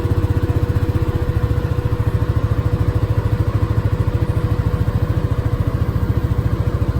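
Vehicle engine running at a steady speed, an even low pulsing with a thin steady whine over it.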